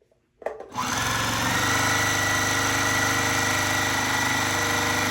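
Juki TL-15 semi-industrial straight-stitch sewing machine starting about half a second in, quickly running up to full speed and stitching steadily at high speed through five or six layers of fabric, with a steady motor whine.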